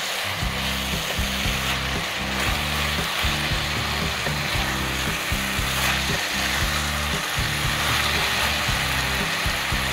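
Oyster mushrooms sizzling steadily as they stir-fry in a hot pan, with background music underneath.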